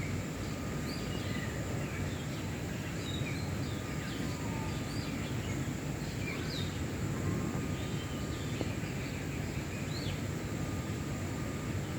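Outdoor ambience: many short, scattered bird chirps and whistles over a steady low rumble and a thin, steady high-pitched tone.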